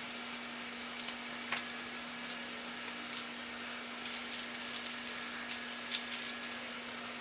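Scattered light clicks and rattles that thicken into a quick cluster about four seconds in, over a steady low hum and hiss.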